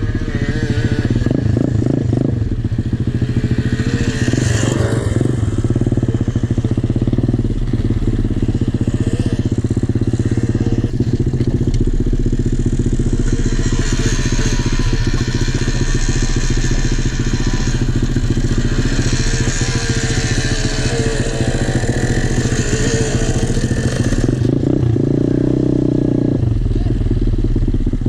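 Small single-cylinder pit bike engine running hard while being ridden, its revs rising and falling.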